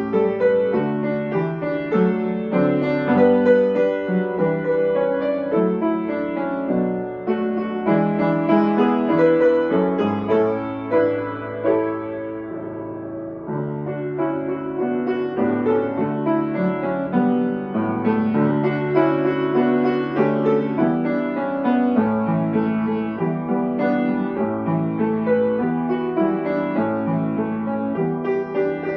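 Solo piano playing a slow, gentle piece with sustained chords.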